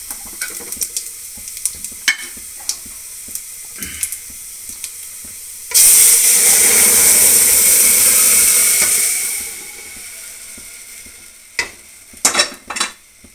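Onion and curry-leaf tempering sizzling quietly in hot oil in an aluminium pot, with a few metal ladle clinks. About six seconds in, sambar poured onto the hot oil sets off a sudden loud sizzle that lasts about three seconds and then dies down. A few metal clanks come near the end.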